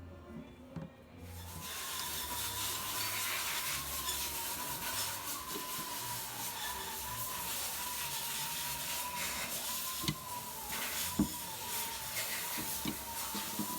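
A handheld power tool starts about a second in and runs steadily on metal, with a wavering motor whine under a rough grinding hiss. A couple of sharp knocks come near the end.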